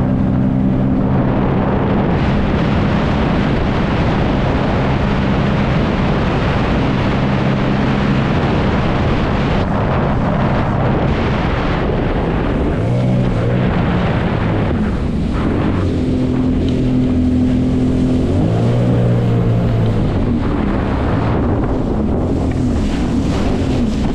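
Jet ski engine running under way, with wind on the microphone and rushing water. The engine note holds steady at first, then rises and falls with throttle changes in the second half.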